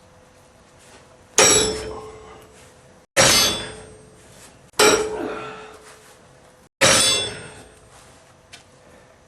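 Four hard metal-on-metal clangs, about one and a half to two seconds apart, each ringing out and fading.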